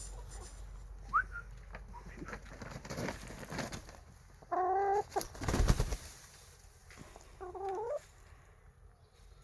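A hen calling twice with drawn-out, wavering vocalisations, about halfway through and again near the end, with a short chirp early. A louder rustling bump comes between the two calls.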